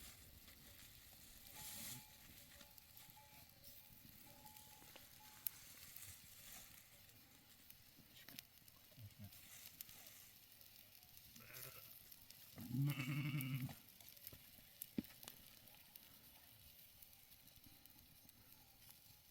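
A sheep bleats once, a single call about a second long roughly two-thirds of the way in; otherwise quiet, with a few faint clicks.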